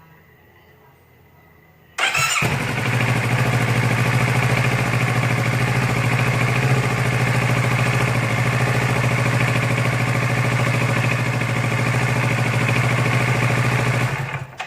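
Kawasaki Z650 motorcycle engine starting about two seconds in and then running at a steady idle, showing that the repaired ignition wiring now works.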